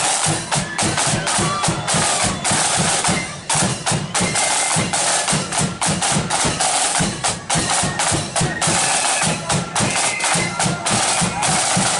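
Marching flute band playing: side drums rattling and a bass drum beating steadily and loud, with flutes carrying the tune more faintly above them.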